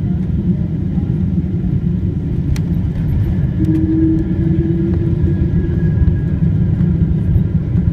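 Boeing 777-200 airliner heard from inside the passenger cabin during landing: a steady, loud low rumble of engine and airflow noise, with a faint hum briefly rising above it about four seconds in.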